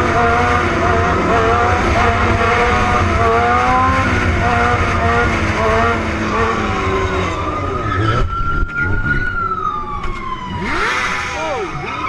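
Motorcycle engine revving up and down repeatedly over a heavy low wind rumble. About eight seconds in it gives way to a slow rising-and-falling siren wail.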